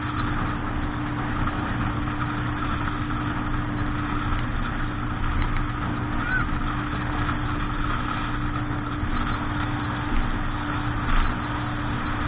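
Motorboat engine running at a steady speed, a constant low drone under a wash of wind and water noise.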